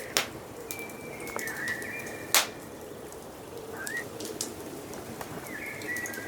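Wood fire crackling, with scattered sharp pops and one loud pop about two seconds in, over forest birdsong: thin whistled notes, a short rising call near the middle, and more whistles near the end.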